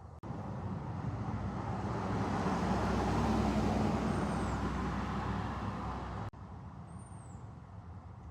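A road vehicle passing by, growing louder to a peak about halfway through and then fading, cut off abruptly about six seconds in. A bird gives short, high, falling chirps, once in the middle and again near the end.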